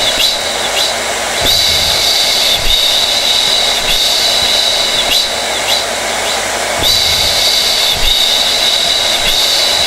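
Hair dryer running steadily: a continuous rush of air with a high, steady whine.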